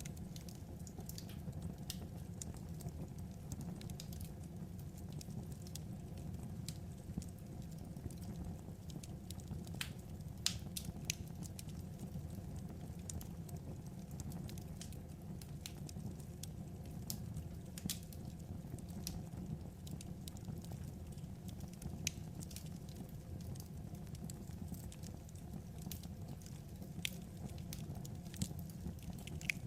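Wood fire crackling: a steady low rumble with irregular sharp pops and snaps, a few louder than the rest.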